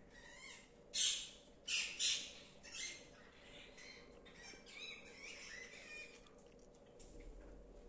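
Parrots squawking: four loud, harsh squawks in quick succession in the first three seconds, then softer, wavering chirping calls.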